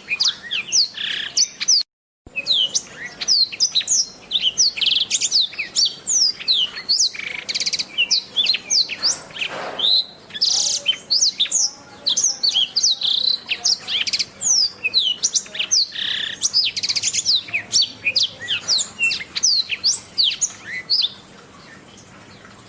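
Black-throated canary (blackthroat) singing a fast, continuous song of rapid high, downslurred whistles and trills. It cuts out briefly about two seconds in, and stops near the end, leaving only faint background.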